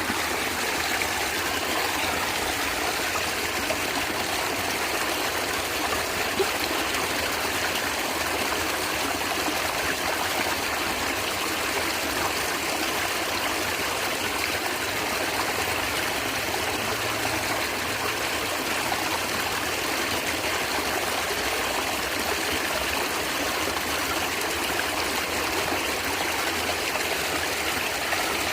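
A small natural stream gurgling and trickling steadily over rocks.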